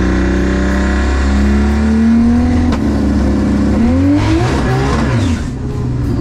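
Big-turbo 2JZ straight-six of a Toyota MK4 Supra heard from inside the cabin, revving: its pitch climbs, drops sharply about two and a half seconds in, climbs again, and briefly falls off in level near the end.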